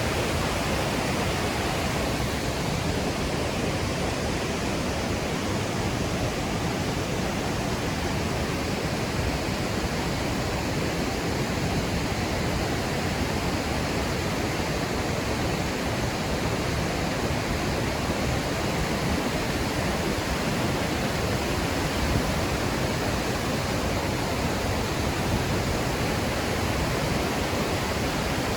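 Låtefossen twin waterfall: a constant, heavy rush of falling water, an even noise with no breaks.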